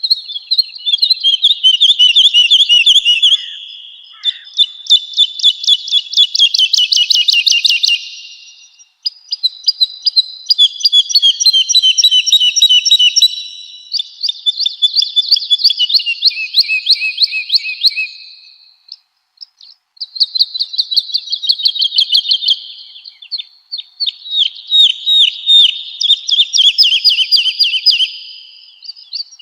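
Woodlark singing: phrases of rapidly repeated, trilled notes, each several seconds long, with short pauses between them.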